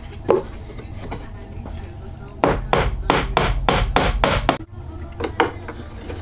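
A hammer striking wood: one knock, then a fast run of about a dozen blows, roughly five a second, and two more blows near the end.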